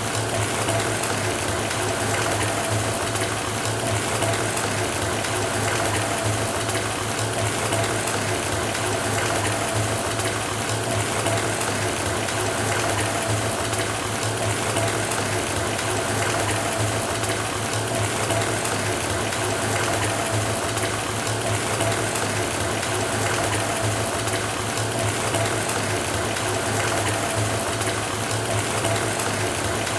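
Bath tap running full, water pouring steadily into a filling bathtub, with a low steady hum under the splashing.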